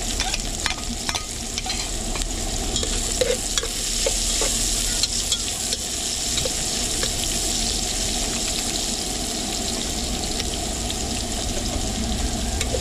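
Chopped garlic, onion and ginger sizzling in hot cooking oil in a metal pot, stirred with a metal ladle that clicks and scrapes against the pot now and then.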